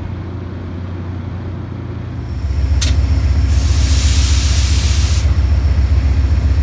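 Diesel locomotive engine running with a low, pulsing drone that grows louder about two seconds in. A sharp click is followed by a loud hiss of air lasting nearly two seconds.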